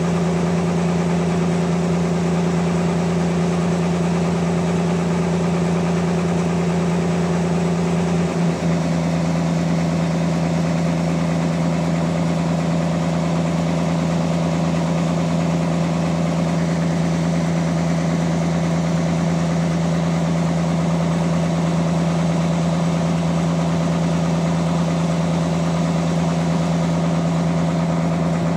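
Sawmill machinery running with a steady, engine-like hum. About eight and a half seconds in, one of its tones drops out with a brief dip, and the hum then runs on unchanged.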